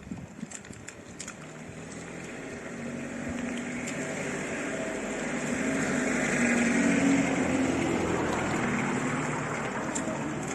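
A motor vehicle passing by, its engine growing louder to a peak about six to seven seconds in, then slowly fading. A few short clicks sound in the first second.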